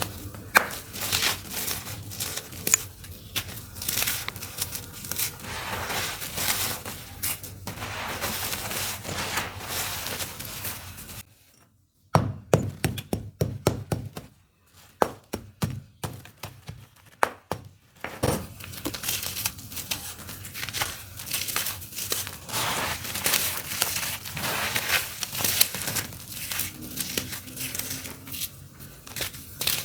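Clumps of dry, crunchy dirt being crumbled and broken up: a dense run of crackles and crunches. There is a short break just after 11 seconds in, then several seconds of separate sharp cracks, before the dense crumbling resumes.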